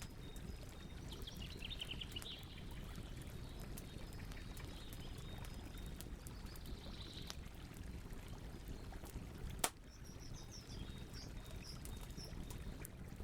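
Wood campfire crackling, with scattered small pops and one loud pop about ten seconds in. Birds chirp briefly in the background, once early on a quick run of notes and again later.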